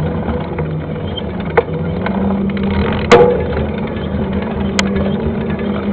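29er mountain bike riding over a rough dirt trail: a steady rumble with three sharp knocks and rattles, the loudest about three seconds in.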